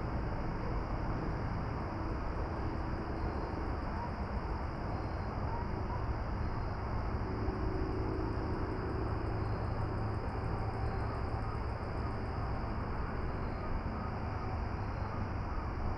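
Steady outdoor ambient noise: a constant low rumble under an even hiss, with a faint, rapid high ticking in the middle.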